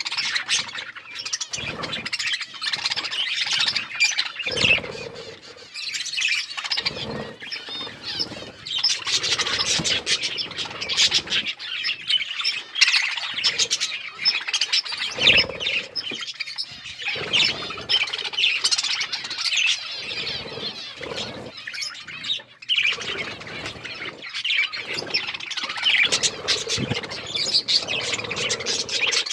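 Budgerigars chirping and chattering without pause, with now and then a short low thump.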